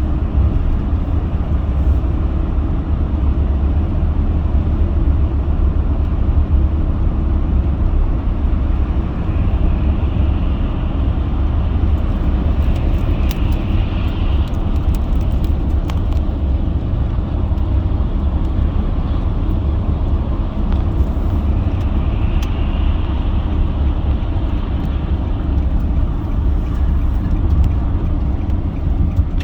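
Steady road noise inside a moving car: a constant low rumble of engine and tyres, with a faint hiss swelling and fading twice.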